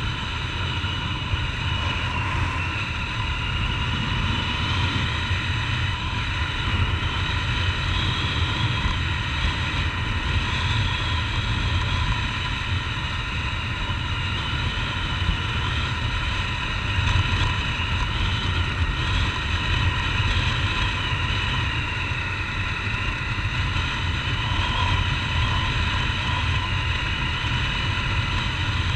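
Honda CG Titan 150's single-cylinder engine running steadily while riding on the road, under heavy wind rush on a helmet-mounted camera.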